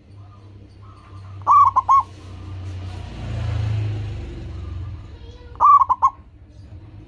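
Zebra dove (local perkutut) singing: two short cooing phrases of about four quick notes each, about a second and a half in and again near the end. Between them a low rumble with hiss swells up and fades away.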